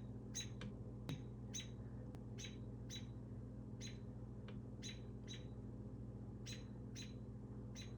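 Robins at the nest chirping: short, high peeps repeated irregularly, about two a second.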